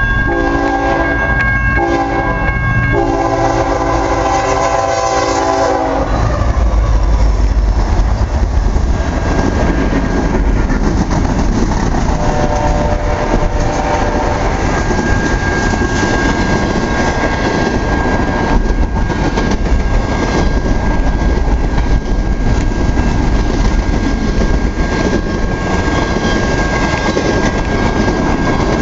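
A locomotive's Nathan K5HL five-chime air horn sounds the crossing signal, with two brief breaks, until about six seconds in. It stops as the diesel locomotives pass, and the double-stack well cars then rumble and clatter steadily over the rails. A shorter, fainter horn blast comes near the middle, and a thin steady high ringing runs throughout.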